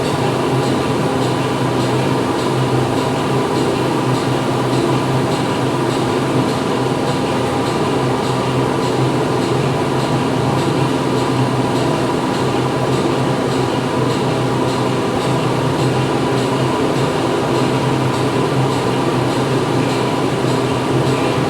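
Steady din of factory machinery running inside a factory hall: a constant mechanical hum with several steady tones and a dense wash of noise, without pause or change.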